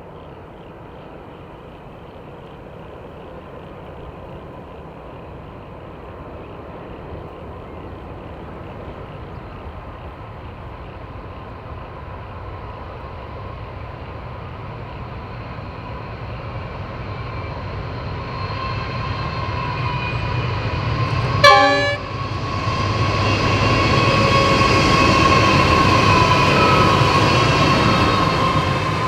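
Diesel-hauled train approaching and getting steadily louder. It sounds one short horn blast about two-thirds of the way through, then passes close with engine and wheel noise.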